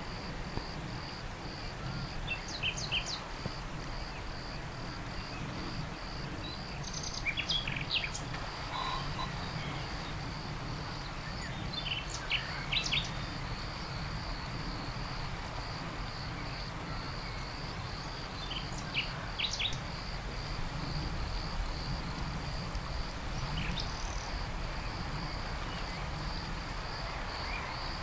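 Outdoor nature ambience: small birds give short chirps in scattered clusters over a steady, evenly pulsing insect trill, with a low rumble underneath.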